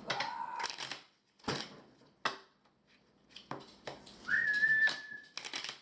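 Several short clicks and rattles, then one whistled note lasting about a second near the end, rising briefly and then held steady.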